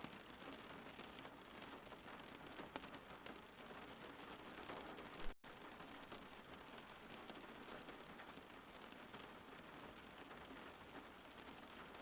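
Faint steady rain falling outside, an even hiss with scattered drop ticks. About five seconds in there is a short pop followed by a split-second gap of silence.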